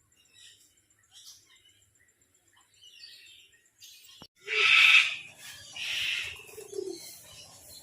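Birds calling: faint scattered chirps, then two loud harsh calls about halfway through, followed by weaker calls.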